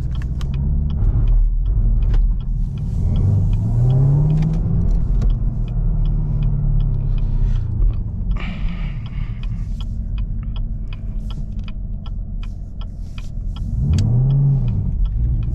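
Camaro ZL1's supercharged V8 running under way, heard from inside the cabin. It revs up and back down about four seconds in and again near the end, with steadier cruising in between.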